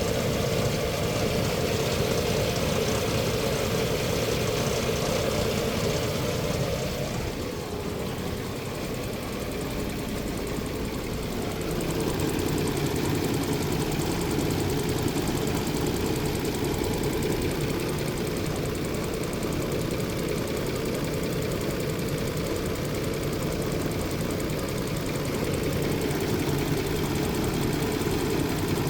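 2006 Nissan Xterra's 4.0-litre V6 idling hot with a knocking noise from the bottom end of the engine, which the owner hears only at a low idle around 750 rpm when hot and not at 900 rpm. The engine sound drops a little about seven seconds in and comes back about five seconds later.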